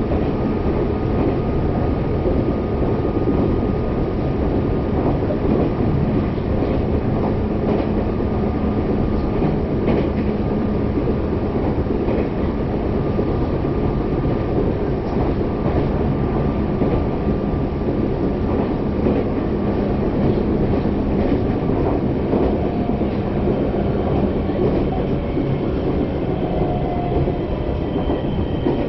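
Meitetsu Mikawa Line local electric train running between stations, heard from inside the passenger car: a steady rumble of wheels on rail with a faint steady motor whine. Near the end, a few higher whining tones come in.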